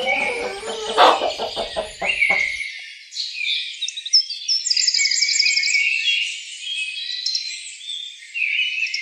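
Birds chirping and trilling at a high pitch, with quick repeated notes. In the first two and a half seconds they are joined by a lower animal call made of rapid pulses, about ten a second.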